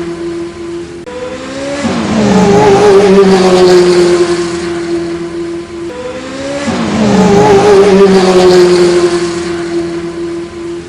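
Car sound with a held squealing tone and pitch glides, the same pattern repeating about every five seconds as if looped, cutting off suddenly at the end.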